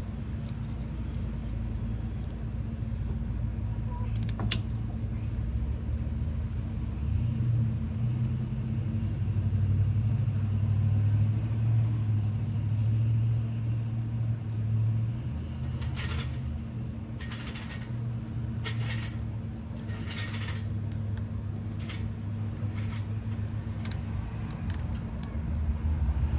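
A steady low rumble and hum, louder through the middle, with one sharp click about four seconds in and several short scrapes in the last third.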